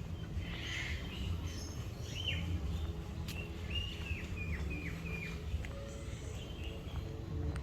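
Birds chirping: a run of short, downward-sliding chirps, most of them between about two and five and a half seconds in, over a steady low background rumble.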